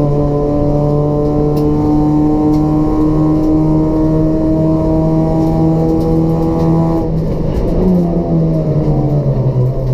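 Race-built Toyota Etios's 1.5-litre petrol engine with a free-flow exhaust, pulling hard with its note rising slowly and steadily for about seven seconds, then dropping sharply as the driver lifts or changes gear, and picking up again at a lower pitch.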